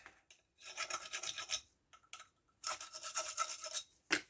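Rag being scrubbed quickly back and forth over chainsaw parts while wiping them down. The scrubbing comes in two bouts of about a second each, followed near the end by a single short click.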